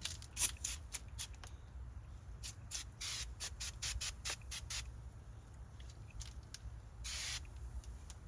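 Foam glass-cleaner spray hissing in two short bursts, about three seconds in and again about seven seconds in, between quick strokes of a microfiber cloth rubbing over car interior surfaces.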